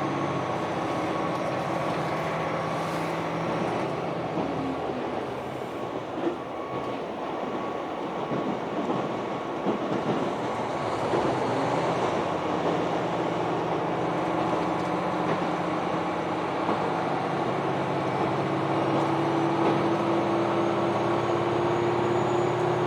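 KiHa 261 series diesel express train running, a steady rumble and engine drone with a few knocks from the rails, and a tone that rises slowly in the second half.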